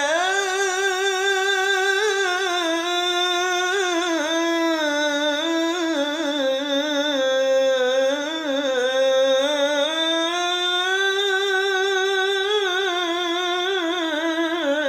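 A male muezzin's voice chanting the adhan in one long unbroken melisma, drawing out the call to prayer between "ḥayya ʿalā" and "aṣ-ṣalāh" with vibrato and ornamented turns that rise and fall in pitch.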